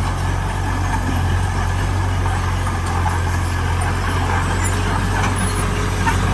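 Diesel engine of heavy earthmoving machinery running steadily at a constant low drone, with no change in speed.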